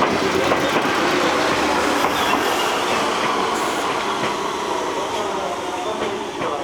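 Meitetsu electric train running through the station, a steady rumble of wheels on rail with scattered clicks over the rail joints, easing off slightly toward the end.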